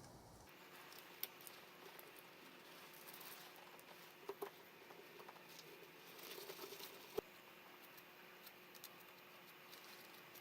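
Near silence with scattered faint small clicks and taps, the sharpest about a second in and again near seven seconds.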